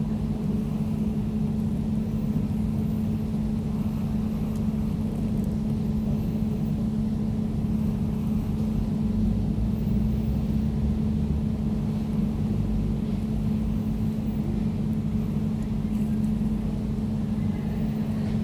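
Air conditioner running steadily: a constant low hum with one held tone and a rumble beneath it.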